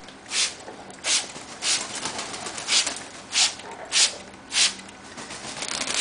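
Hand-pump spray bottle misting water in quick, evenly spaced spritzes, about three every two seconds, each a short hiss.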